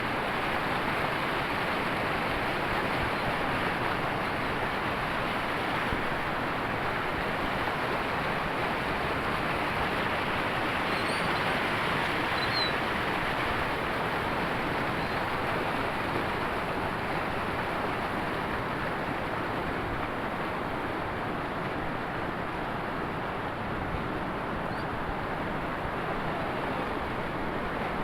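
River waterfall: water rushing and splashing in a steady, unbroken roar of noise.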